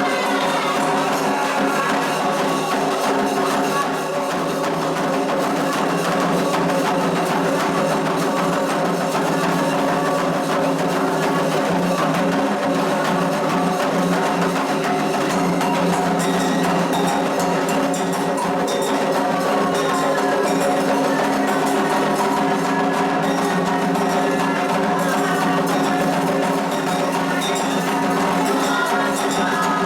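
Candomblé ritual music: drumming with a bright, regular struck-percussion pattern in a dense, steady mix with sustained stacked tones. The recording has almost no bass.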